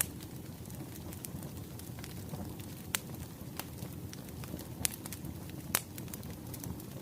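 Wood fire crackling, a steady low rumble of burning logs with scattered sharp pops, the loudest about 3, 5 and 6 seconds in.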